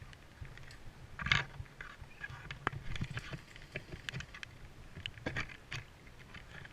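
Close rustling and scattered clicks, with one louder knock about a second in.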